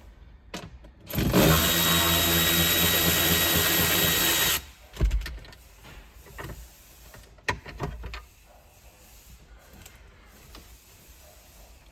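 Power drill running steadily for about three seconds, driving in 10 mm bolts, then a few short knocks.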